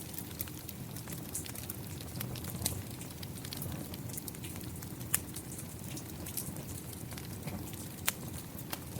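Rain falling steadily together with a crackling fireplace fire: a constant wash of rain under many small sharp crackles and drops, with two louder pops about five and eight seconds in.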